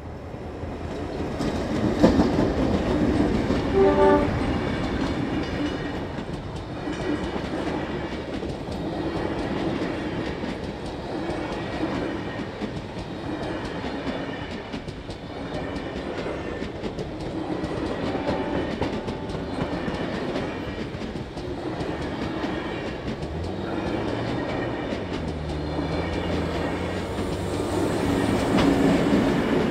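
Heritage diesel-hauled passenger train passing close: the locomotives' engines are loudest in the first few seconds, with a short pitched tone about four seconds in, then the rhythmic clickety-clack of the stainless-steel carriages' wheels over the rail joints as the long train rolls by.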